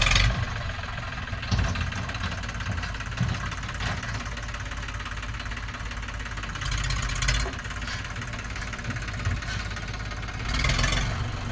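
Heavy diesel engine running steadily with a knocking rumble, revving up briefly and louder at the start, about seven seconds in and again about eleven seconds in.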